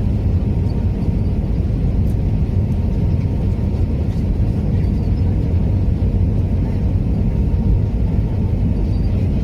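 Steady low rumble of a Lufthansa Airbus A319 on its landing, engine and airflow noise with a faint steady hum above it and no change in pitch.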